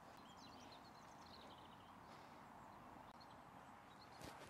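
Near silence, with a few faint, scattered bird chirps.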